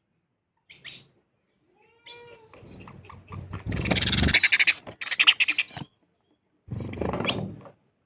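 Short bursts of animal calls split by silence, the loudest a rapid pulsing run from about three and a half to six seconds in.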